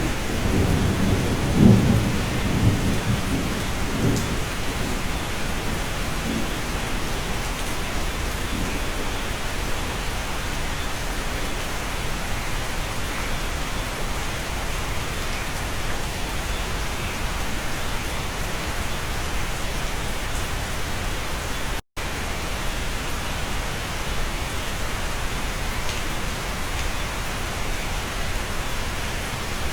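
Steady rain heard from inside a cabin, with a low rumble of thunder in the first few seconds. The sound cuts out for an instant about three quarters of the way through, then the rain carries on.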